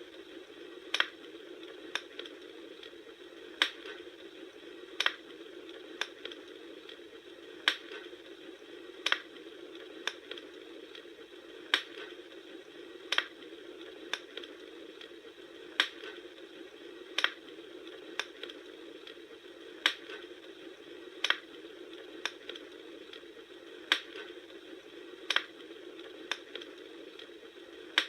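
Wood fire burning: a steady soft hiss with sharp crackling pops about once a second, falling in a fairly regular pattern.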